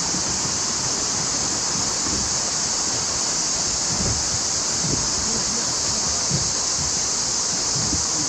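Mountain creek water rushing over rocks, a steady hiss with its strongest part high up.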